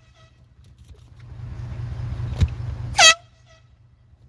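A short, loud air-horn blast about three seconds in, preceded by a swelling hiss and a single knock.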